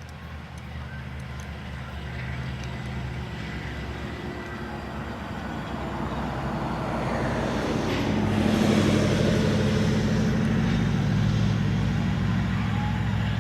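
Diesel locomotive engines of an approaching train, growing steadily louder and loudest about nine seconds in, then running on steadily.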